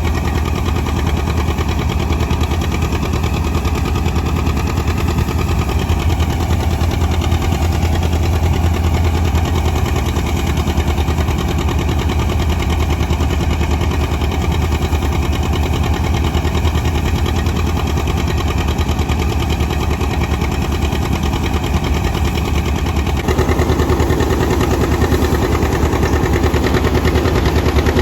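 John Deere 730 two-cylinder diesel tractor engine running steadily; about three-quarters of the way through the sound gets louder and changes character.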